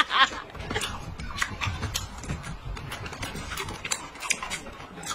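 Close-up chewing of crunchy pickled cucumber strips: irregular crisp crunches, a few a second.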